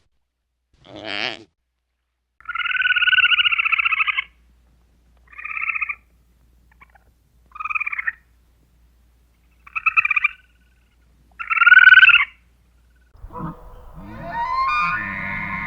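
A bird calling in separate nasal, rasping calls: one long call, then four short ones, the last the loudest. A denser, many-layered sound begins about 13 seconds in.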